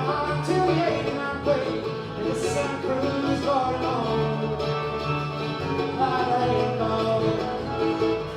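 Bluegrass band playing live, a fast passage of picked string instruments.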